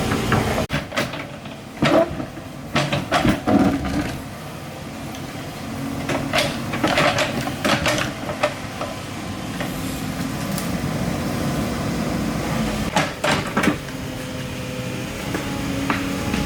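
Excavator's diesel engine running steadily, with clusters of metallic knocks and clanks about a second in, around the middle, and again near the end.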